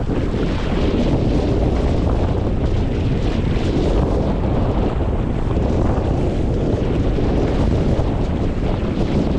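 Wind in a moderate breeze buffeting the microphone aboard a sailing boat, a steady loud rumble and rush, with water washing around the boat under sail.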